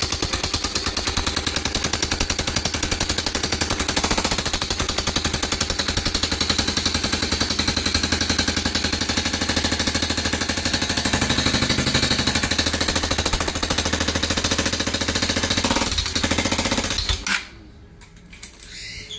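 Honda Cargo motorcycle's single-cylinder four-stroke engine running with a very loud, rapid metallic clatter like loose sheet metal, which the mechanic suspects comes from the rocker arm rollers or guides; the noise began after the bike fell over. The engine cuts off about 17 seconds in.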